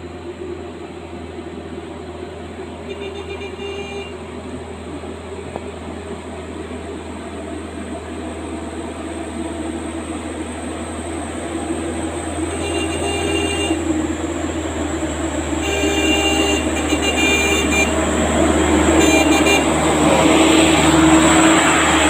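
Truck engine running steadily, getting louder toward the end, with several short horn toots.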